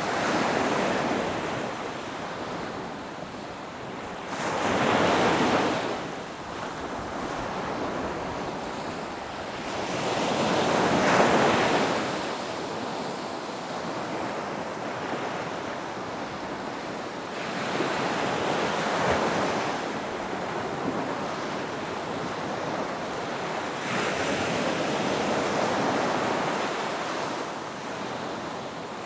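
Ocean waves breaking on a beach: a steady wash of surf that swells as each wave comes in, about every five to seven seconds, with the biggest about a third of the way through.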